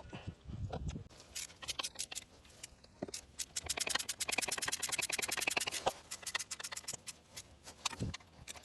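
Scattered clicks and scrapes, with a fast, even run of small clicks, about ten a second, for a couple of seconds in the middle.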